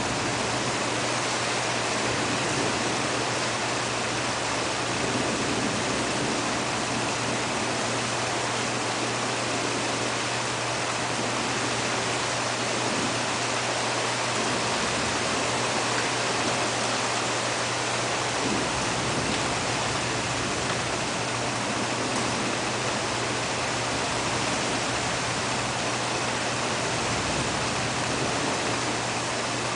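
Heavy rain pouring steadily during a thunderstorm, an even hiss with no thunderclap standing out.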